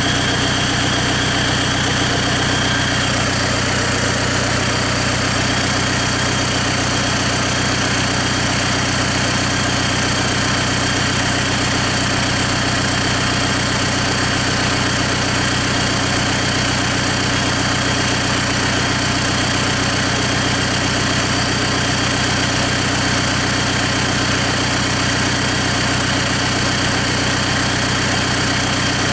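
Hyundai/Kia J3 four-cylinder diesel engine idling steadily.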